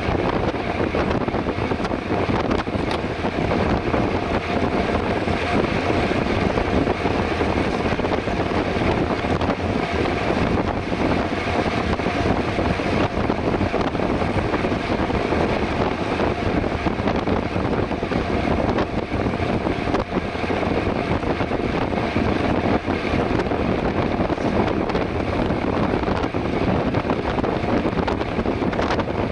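Steady wind rushing over the microphone of a mountain bike ridden at speed on the road.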